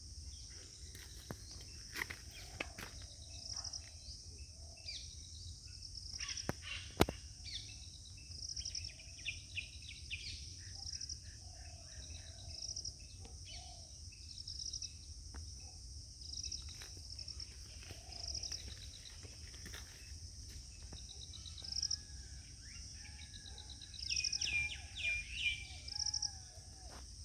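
Birds calling and chirping over a steady, high-pitched insect drone, with short calls repeating every second or two. A single sharp click sounds about seven seconds in.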